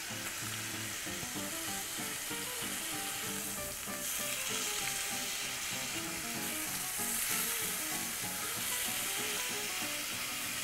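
Chicken pieces frying in hot oil in a pan: a steady sizzle that rises a little about four seconds in.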